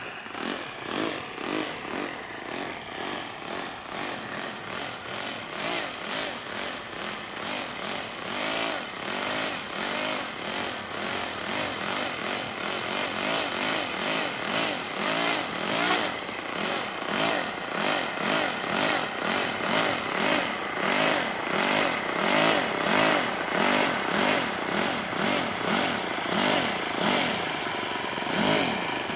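Radio-controlled model airplane's engine running at high revs, its pitch and loudness wavering up and down about twice a second. It grows louder partway through.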